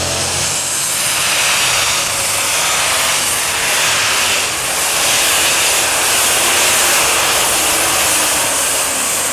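Super stock pulling tractor at full throttle dragging the weight sled down the track: a loud, steady rush of engine and turbocharger noise, strongest in the high range, with the engine's lower pitched note fading about half a second in.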